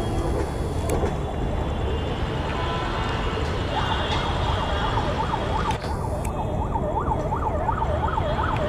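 Steady low rumble of a passenger train pulling away on the track. From about four seconds in, a siren wails over it, its pitch swinging quickly up and down about twice a second.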